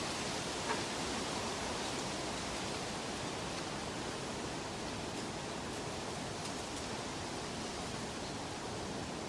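Steady, even rushing hiss of a nature-sound ambience, with one faint tick under a second in.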